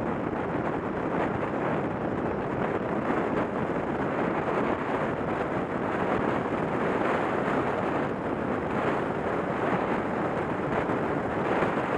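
Steady rushing noise with no distinct events, holding an even level throughout.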